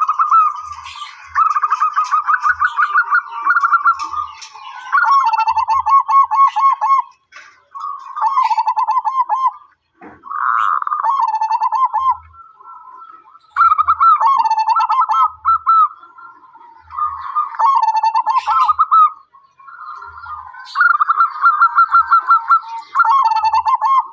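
Zebra dove (perkutut) cooing: phrase after phrase of quick, rippling coos, each phrase lasting a second or two, with short pauses between.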